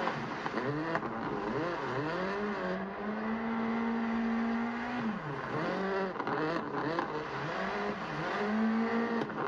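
Mazda MX-5 ND's 2.0-litre four-cylinder engine under spirited driving: the revs rise and drop in quick swings, are held steady for about two seconds in the middle, and are held again briefly near the end.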